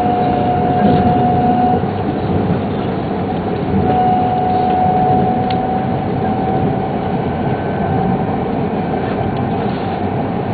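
Shinkansen running at speed, heard from inside the passenger cabin: a steady rumble and rush of wheels on rail, with a faint steady whine that fades out about two seconds in and comes back around four seconds in.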